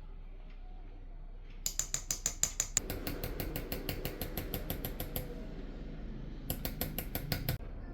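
Rapid light tapping of a small hammer on a hand engraving chisel cutting patterns into a silver dish, about nine taps a second. It comes in two runs, starting about a second and a half in and again near the end after a short pause.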